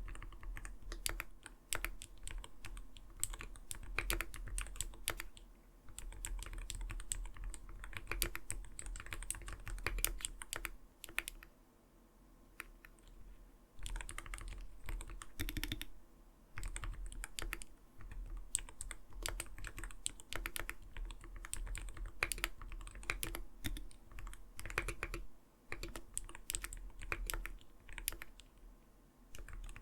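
Steady typing on an Arbiter Studio Polar 65 Phantom mechanical gaming keyboard, fast runs of keystrokes with a soft, rounded 'kotokoto' clack. There are brief pauses, the longest about twelve seconds in.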